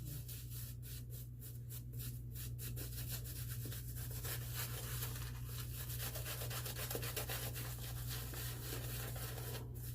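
Synthetic shaving brush lathering soap onto a bearded face, a quick run of swishing, rubbing strokes over a steady low hum.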